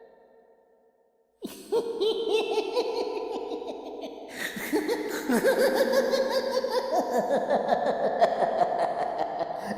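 Evil clown laugh sound effect: after a second and a half of silence, a voice cackles in quick repeated "ha"s. About four and a half seconds in, the laughter gets fuller and louder.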